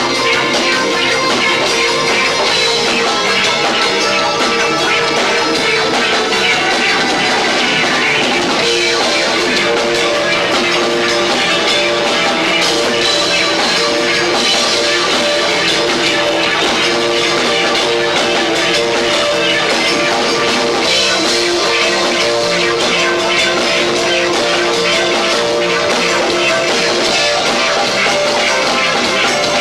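Loud live rock band playing without a break: pounding drums under sustained guitar and keyboard tones, from a band with two drummers. Recorded on a camcorder's built-in microphone, so the sound is dense and lo-fi.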